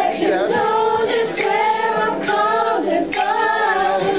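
Voices singing a song, with several pitched vocal lines heard at once.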